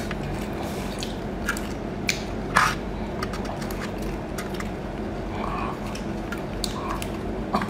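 Close-up eating sounds: scattered wet clicks and crackles as a large mouthful of food is bitten and chewed, over a steady low hum.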